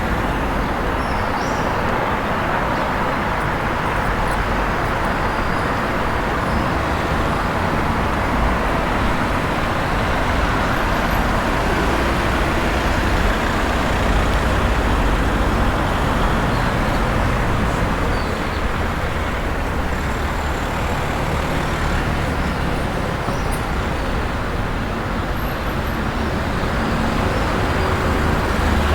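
Steady street ambience dominated by road traffic noise, an even wash of sound with a low rumble throughout.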